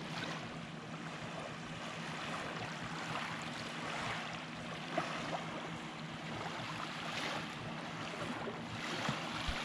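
Small waves washing onto a beach, the surf swelling and easing every couple of seconds, with a few light clicks.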